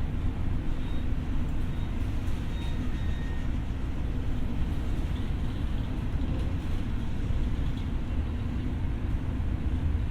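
Steady running noise inside a Tokyo Metro 6000 series electric train underway: a constant low rumble of wheels on rails and the car in motion.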